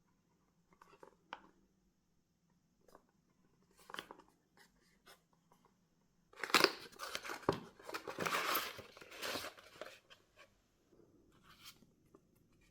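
Product packaging being handled and opened by hand. A few light clicks and taps come first, then about four seconds of loud rustling and tearing in the middle, then a few quieter clicks.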